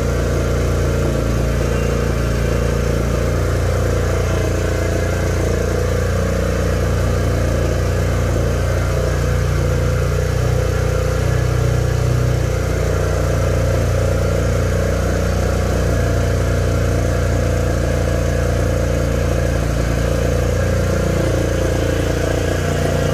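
Motorcycle engine idling steadily: a low, even hum that holds without revving.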